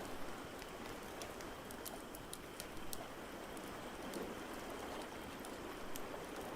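Fireplace crackling, with scattered sharp pops over a steady rushing hiss of water.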